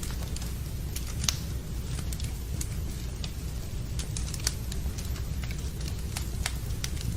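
Wood fire in a fireplace crackling, with irregular sharp pops over a steady low rumble; the loudest pops come about a second in and again about four and a half seconds in.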